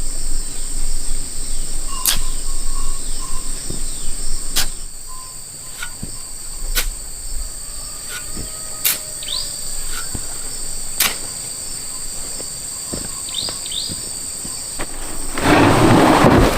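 Insects chirring steadily at a high pitch, broken by a few sharp knocks spread through the clip and some short high chirps. Near the end comes a loud, rough burst of noise lasting about a second.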